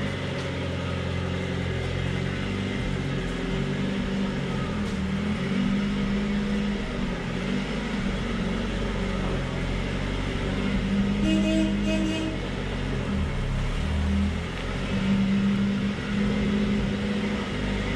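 Box truck engine running at low revs as the truck creeps forward, rising and easing slightly. Two short tones sound about eleven seconds in.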